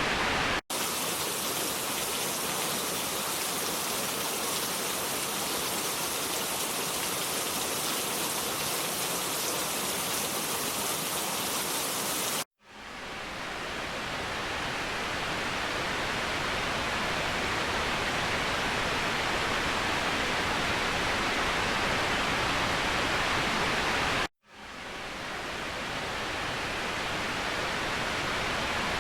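Waterfall: a steady rush of falling water. It cuts out briefly three times, about half a second in, about 12 seconds in and about 24 seconds in, and after the last two gaps it swells back in over a second or two.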